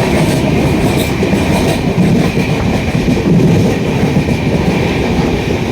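A train running along the track, heard from on board: a steady, loud rumble with wheel clatter, and a thin steady high tone over it.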